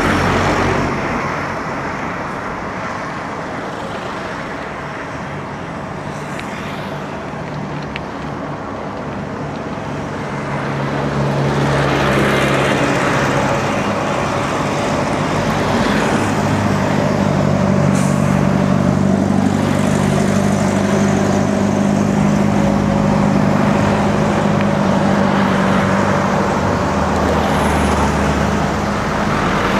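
Road traffic with motor vehicle engines running close by. A steady engine hum comes up louder about a third of the way in and holds.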